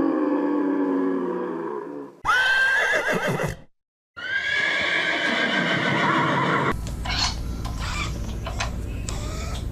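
A horse whinnying twice, two high-pitched calls about a second and a half and two and a half seconds long, after the low moo of a cow fades out. From about seven seconds in, a steady hiss with scattered sharp clicks takes over.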